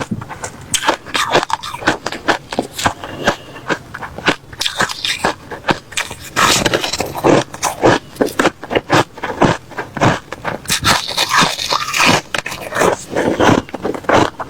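A person chewing mouthfuls of refrozen crushed ice close to the microphone: a rapid, irregular run of loud, crisp crunches.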